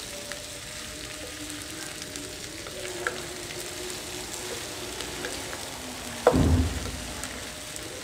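Brinjal and potato pieces frying in oil in a non-stick kadai, stirred with a spatula: a steady sizzle, with one loud knock about six seconds in.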